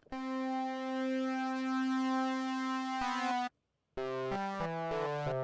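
Arturia Pigments software synthesizer's wavetable oscillator holding one buzzy note for about three seconds, its upper overtones sweeping as a modulator moves the phase distortion. After a short break it plays a quick run of notes stepping down in pitch.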